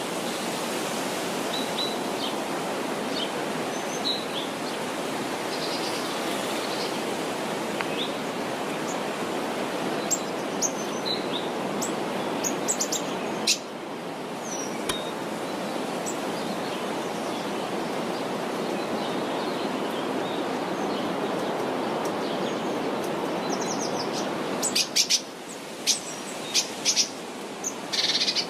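Small birds chirping over a steady rushing background noise. Sharp short clicks come in clusters about ten seconds in and again near the end.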